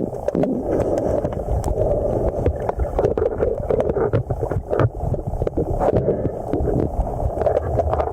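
Muffled rushing of river current heard underwater through the camera's housing, steady and loud, with many scattered sharp clicks.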